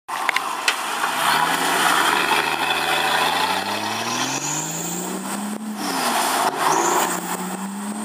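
A 4x4's engine pulling under load, rising in pitch for several seconds. The pitch drops sharply about five and a half seconds in, then rises again.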